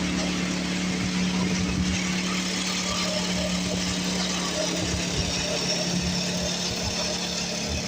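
Tecumseh single-cylinder engine on an old Craftsman 24-inch snowblower running steadily, revived after sitting for years.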